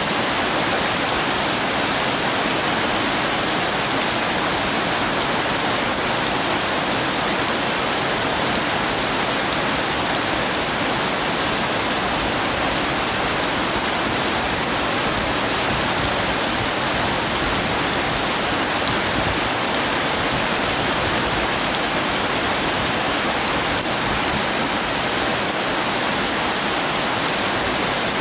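Heavy rain falling in a steady, even downpour, a dense hiss with no thunderclaps.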